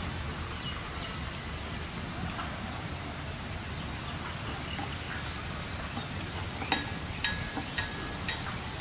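Outdoor ambience with a steady low rumble, and about two thirds of the way in a quick run of about six short, sharp bird chirps.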